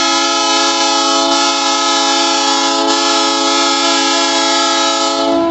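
Train horn sounding one long steady blast of about five and a half seconds, several tones together in a chord, cutting off near the end.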